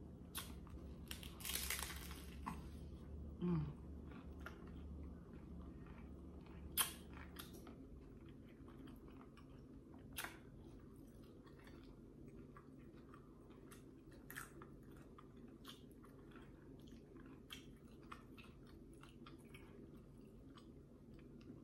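A person biting into and chewing a crunchy hard-shell taco close to the microphone: a burst of crunching about a second and a half in, then scattered crisp crunches and mouth clicks as she chews, the sharpest about seven seconds in.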